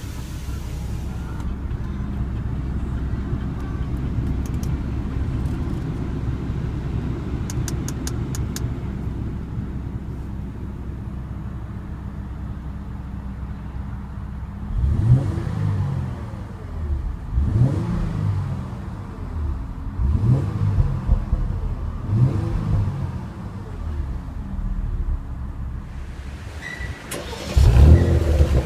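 A 2015 Porsche Cayenne S's 3.6-litre twin-turbo V6, just started, idling steadily, then blipped four times about every two and a half seconds, with a bigger rev near the end.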